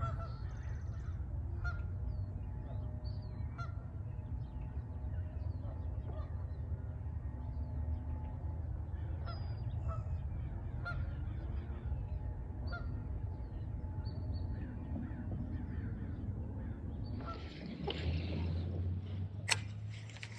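Birds calling repeatedly: short calls every second or two, with higher chirps among them, over a steady low rumble. Near the end a rush of noise and a single sharp click.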